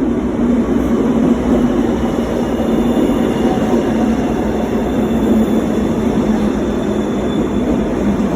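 Steady rumble of a train running.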